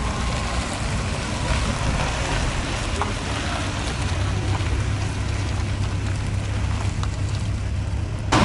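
A vehicle engine running steadily, a low rumble under a constant hiss.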